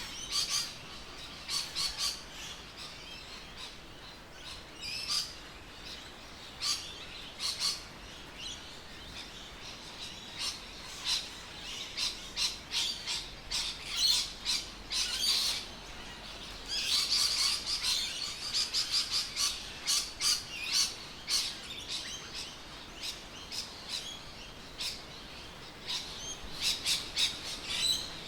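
Birds calling outdoors: a steady run of short, high chirps that grows busiest a little past the middle.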